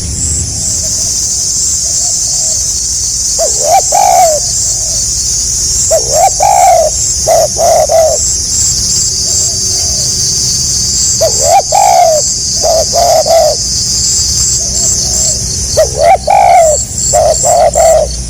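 Spotted dove (tekukur) cooing in a stuttering pattern: four phrases a few seconds apart, each a swooping coo followed by quick short notes. A steady high hiss with rapid pulsing runs underneath.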